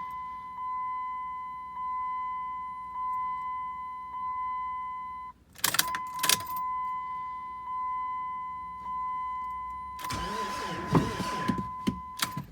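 Steady high electronic warning tone from the vehicle, pulsing gently in level. It breaks off about five seconds in for two sharp clicks, then resumes, with rustling handling noise near the end.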